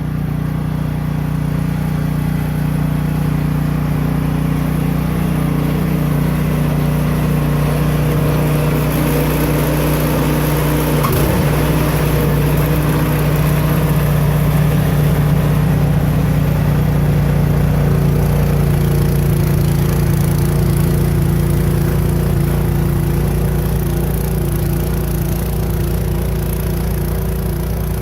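Gas engine of a Craftsman snow blower running steadily at working speed.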